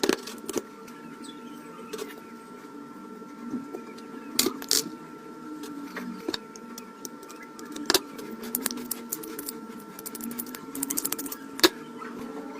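Scattered clicks and taps of small parts being handled during an LED bulb repair, with a quick rattling run of clicks shortly before the end and one sharp click near the end, over a faint steady hum.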